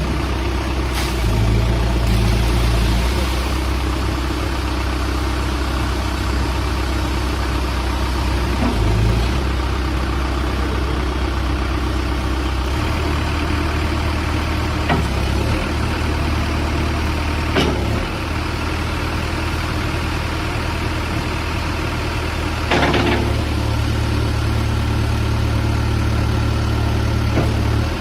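2011 Case 580N backhoe loader's diesel engine running at low speed, its note lifting and settling a few times. A few sharp clanks sound over it, the loudest about two thirds of the way in.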